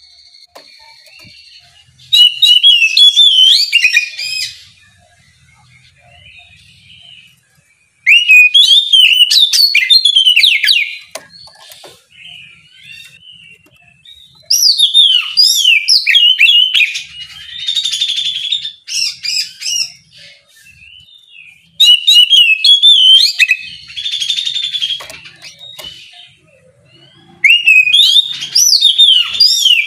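Oriental magpie-robin (kacer) singing loud, clear 'ngeplong' song: five bouts of fast, varied whistled phrases a few seconds each, with short pauses between. Some bouts have harsh, rasping notes mixed in.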